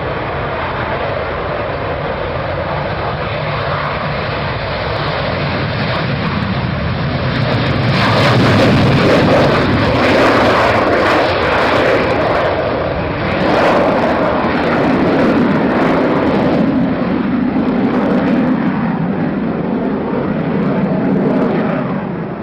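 Aircraft engine noise of a plane flying past, a broad rushing sound that swells about a third of the way in and eases off near the end.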